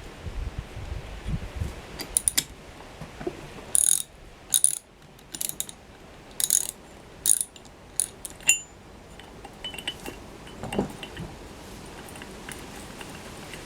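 Hand ratchet wrench clicking in a string of short strokes, mixed with light metal clinks of tools and parts.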